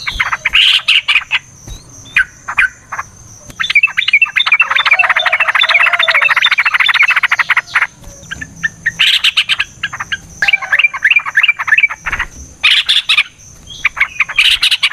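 Yellow-vented bulbuls (trucukan) in a loud, rapid chattering song duel: short bursts, a long unbroken run of fast notes about four seconds in, then more bursts near the end. A steady thin high whine runs underneath.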